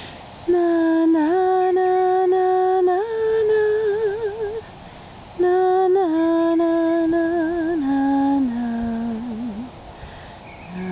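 A woman humming a slow, wordless lullaby in two long phrases of held notes, each note ending in a wavering vibrato.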